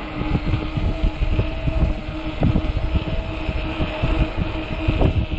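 48 V fat-tire e-bike hub motor whining at one steady pitch under throttle, with wind buffeting the microphone in irregular low gusts.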